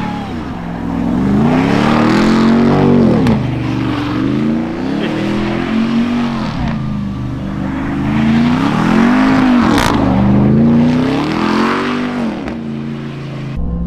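Ram TRX's supercharged 6.2-litre V8 revving up and falling back about four times, with a rushing noise swelling at each peak.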